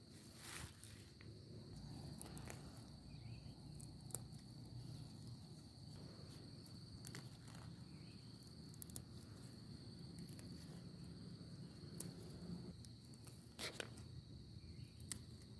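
Faint, irregular footsteps and light clicks over a steady high-pitched insect drone, like crickets.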